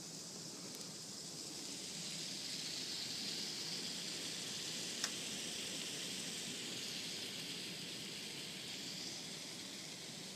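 Hail falling: a steady hiss of many small impacts that swells in the middle and eases off near the end, with one sharp click about five seconds in.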